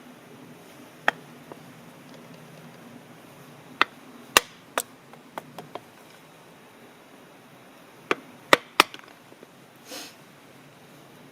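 Sharp wooden knocks and cracks, single and in quick clusters of two or three, with a short soft rush of noise near the end.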